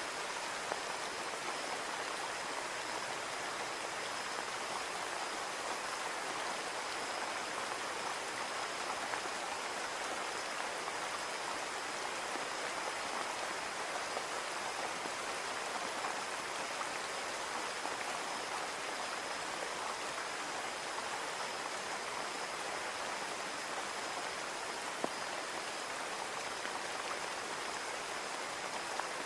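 Steady rain falling and pattering on a window pane, an even hiss with a few faint drop ticks.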